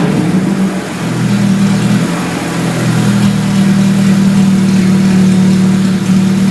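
New VAZ (Lada) car engine coming down from a rev and settling into a steady idle about a second in.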